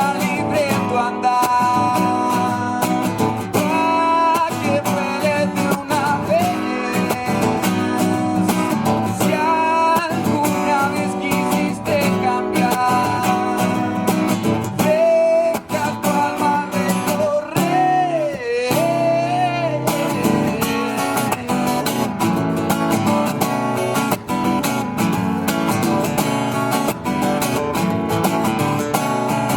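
Acoustic guitar strummed and plucked, with a voice singing a gliding melody over it.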